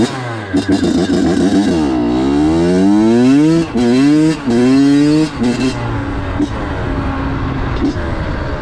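Honda CR85's 85 cc two-stroke single-cylinder engine accelerating under way. The revs climb, fall sharply three times as it shifts up a gear, then settle to a steadier pitch.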